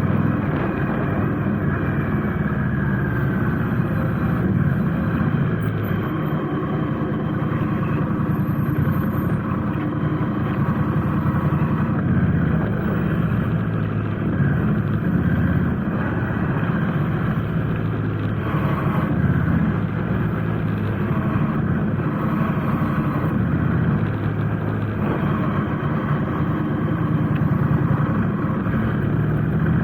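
Motorcycle engine running steadily while riding, a continuous low rumble with an even level throughout.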